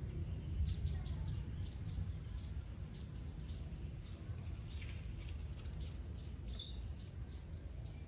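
Faint, short, high bird chirps scattered over a steady low rumble, with a few brighter chirps a little past the middle.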